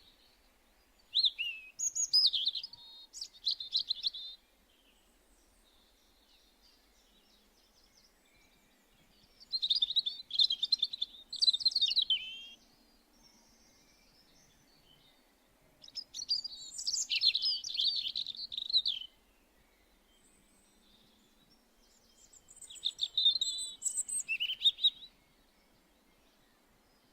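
A songbird singing four short, rapid warbling phrases, each about three seconds long, with pauses of several seconds between them.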